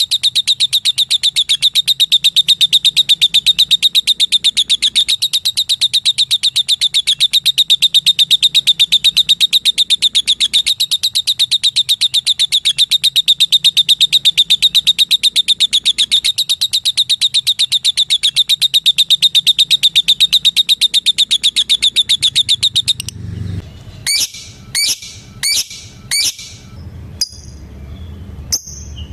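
Female lovebird giving its long, rapid chattering trill ("ngekek"), one note repeated many times a second without a break, which stops about 23 seconds in. It is followed by a handful of separate short, sharp calls and a few faint chips.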